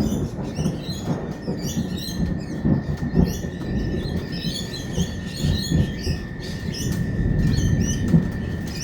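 Lorikeets chirping and chattering in many short, rapid calls over a low, rolling rumble of thunder. A thin steady high tone runs beneath them.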